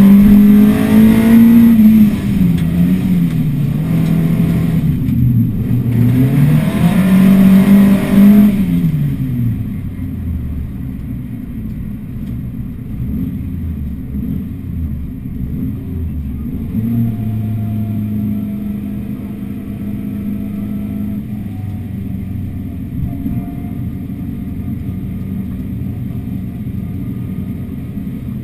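Ford Escort MK4's 2-litre Zetec four-cylinder engine heard from inside the cabin, revving hard, its pitch climbing and dropping through gear changes. About nine seconds in it eases off to a quieter, low, steady running note.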